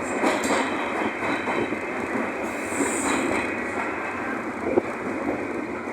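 Passenger train rolling over the track, heard from aboard a carriage: steady wheel-and-rail rumble with a brief high hiss about halfway through and a sharp knock near the end.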